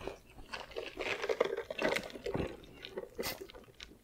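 Close-up chewing of a mouthful of crispy fried chicken sandwich, with many small irregular crunches.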